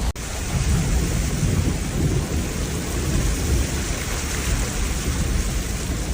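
Heavy rainstorm: a steady hiss of pouring rain with an uneven low rumble underneath.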